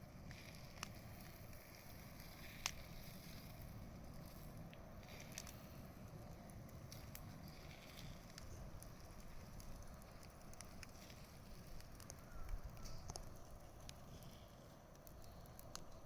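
Wood bonfire crackling softly, with scattered small pops over a low steady hiss, one sharper pop a few seconds in, and a brief swell of low rumble about three quarters of the way through.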